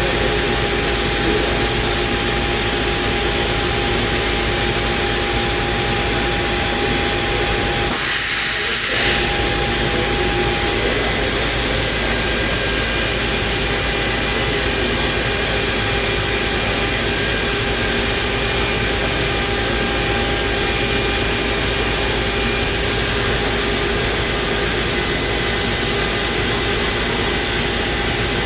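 Morbidelli Universal NB 3615 CNC router running steadily: a continuous machine noise with several steady whining tones. A short hiss cuts in about eight seconds in.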